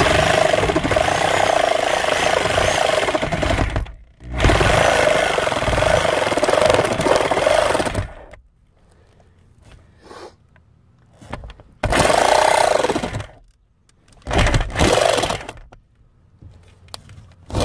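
Power saw cutting the opening through the roof deck, run in four bursts: two long cuts of about four seconds each, then two short ones of about a second.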